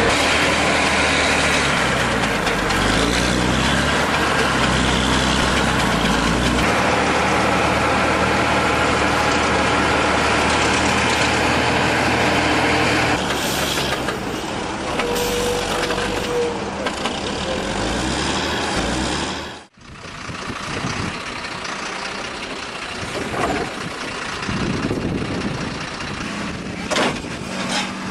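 Heavy vehicle engine running loudly and steadily. The sound drops out suddenly about two-thirds of the way through and comes back quieter and more uneven, like another machine working.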